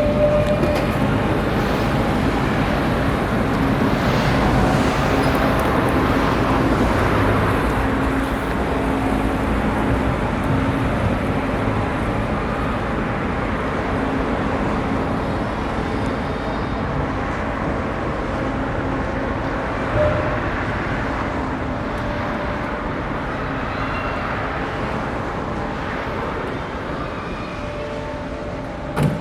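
Steady engine and machinery rumble with a faint continuous hum, rising and falling gently in level.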